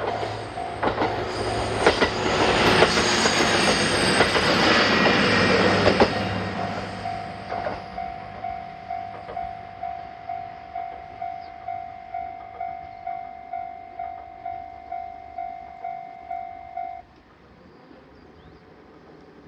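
Diesel railcar passing over the level crossing, its wheels knocking over the rail joints, with a low engine drone under the passing noise. The crossing's warning bell dings steadily about twice a second, rings on alone after the train has gone, and stops near the end as the crossing clears.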